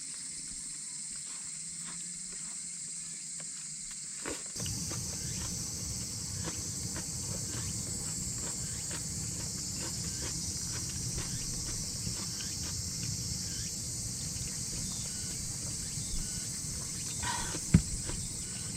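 Steady, high-pitched chorus of summer insects. A low rumbling noise with faint ticks comes in abruptly about four seconds in and continues alongside.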